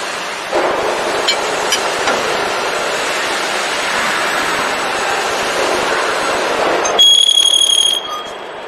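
Electro-hydraulic CNC press brake running with a steady mechanical noise, then a single high electronic beep lasting about a second near the end.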